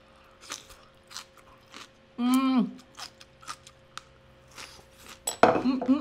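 Close-miked chewing and biting of scallion (green onion) kimchi, with many small crisp clicks and crunches. A short hum of the voice comes about two seconds in, and a sharp knock is followed by a voice near the end.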